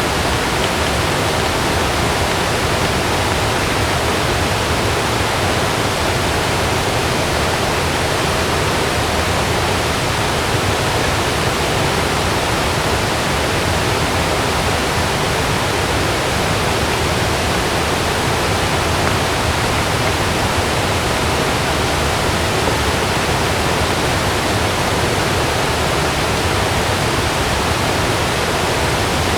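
Heavy rain falling steadily on a camping tent, a dense, even hiss with no thunder in it.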